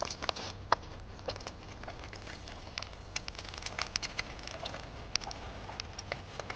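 Irregular small crackles and sharp ticks at an uneven pace, over a low steady background.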